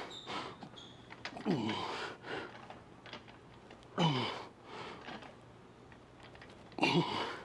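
A man grunting with effort through bench press reps: three strained vocal pushes that drop in pitch, about every two and a half seconds, with light clicks between them.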